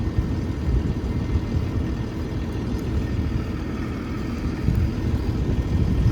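Tractor engine running nearby with a low, uneven rumble.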